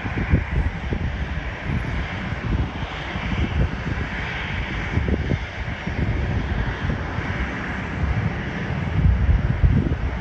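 Jet airliner engines: a deep, fluttering rumble under a higher whine, growing louder near the end.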